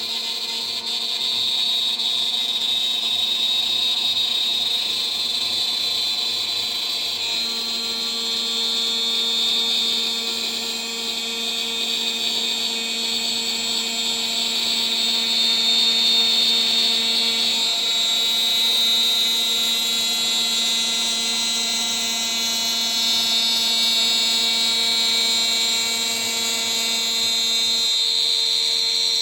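DIY CNC router spindle running at about 14000 rpm with a 3 mm three-flute end mill, milling: a steady high whine. Its tone shifts slightly about a quarter of the way in and again past halfway.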